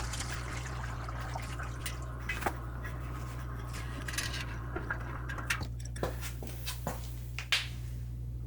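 Scattered small metallic clicks and clinks of the drain valve being worked off the bottom of the air compressor tank, over a steady low hum.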